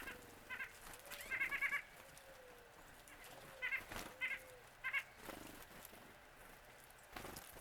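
A bird giving short, nasal calls, some single and one quick run of about five, in a few bursts.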